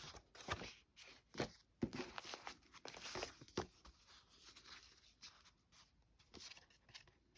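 Paper greeting cards being handled: soft, irregular rustling and crinkling with small clicks, busiest in the first few seconds and then sparser.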